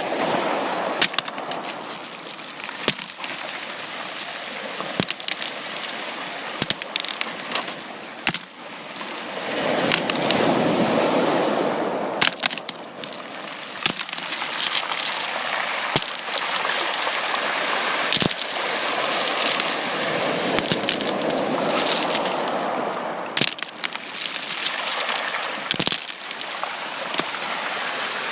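Sea waves washing onto a beach, the surf swelling and ebbing twice, with many sharp crackling clicks throughout.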